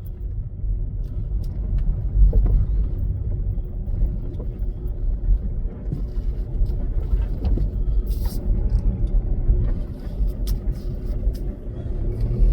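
Volkswagen Golf driving, heard from inside the cabin: a steady low rumble of engine and tyres, with scattered light clicks and rattles.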